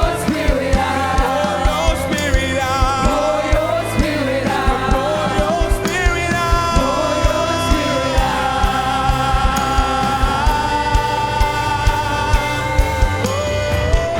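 Live gospel worship music: voices singing over a band with a steady drum beat, moving to long held notes in the second half.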